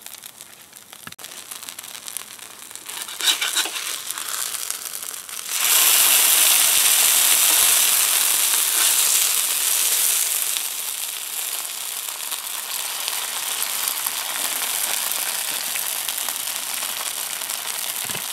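Oil sizzling on a cast iron griddle under a cornmeal johnnycake. The sizzle turns suddenly loud about five and a half seconds in, when the cake is flipped onto the hot oil, then eases a little and carries on steadily.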